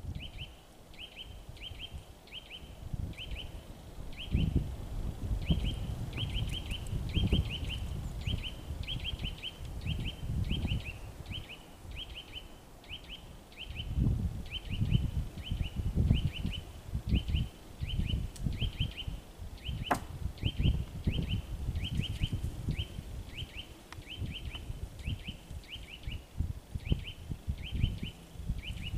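A small songbird repeating short high chirps, about two or three a second, over a low rumble of wind on the microphone that rises and falls in gusts. One sharp click about twenty seconds in.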